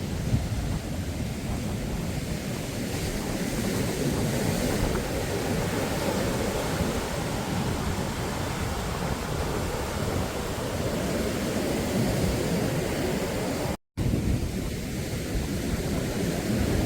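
Surf breaking on a beach, with wind rumbling on the microphone. The sound cuts out for a moment a few seconds before the end.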